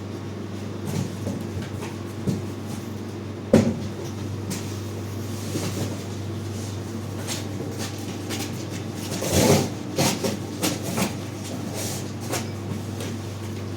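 Scattered knocks and clatters of things being handled, over a steady low hum. The loudest knock comes about three and a half seconds in and a cluster comes about nine and a half seconds in.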